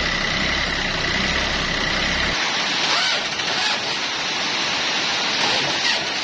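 An engine idling, then cutting off abruptly a little over two seconds in, its low rumble and a steady high whine stopping together; a steady hiss continues after.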